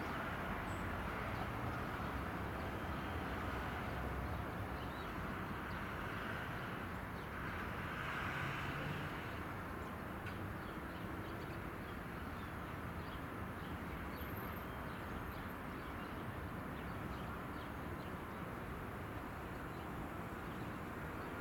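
Metro-North electric multiple-unit commuter train running away down the line, a steady rumble of wheels on rail that fades a little as it recedes.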